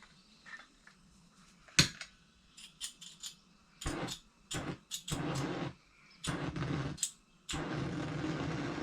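Propane torch that is running out of gas, giving short, uneven spurts of hiss that grow longer toward the end, after a sharp click about two seconds in.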